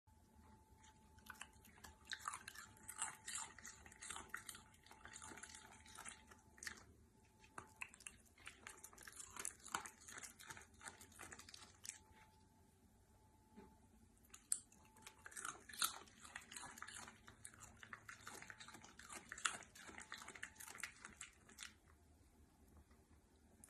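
Dachshund chewing crunchy food: faint, quick crunches and bites in two spells, the second starting about halfway through.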